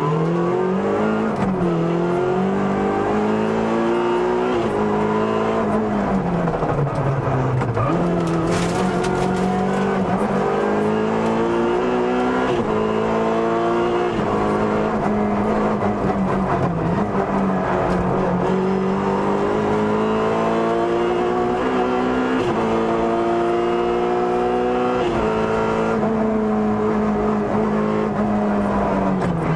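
Opel Kadett E GSI 16V rally car's 2.0-litre 16-valve four-cylinder engine heard from inside the cabin, revving up through the gears again and again. Its pitch drops sharply at each upshift and falls away when lifting off for bends.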